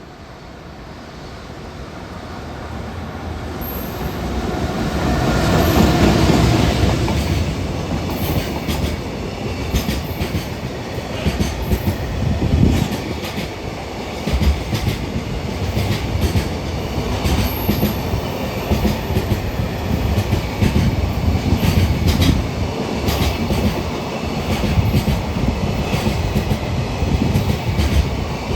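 A freight train hauled by the JR Freight EF210-901 prototype electric locomotive runs through: the sound builds as the locomotive approaches and is loudest about six seconds in. After that comes a long, steady run of container wagons, their wheels clattering over the rail joints in irregular clicks.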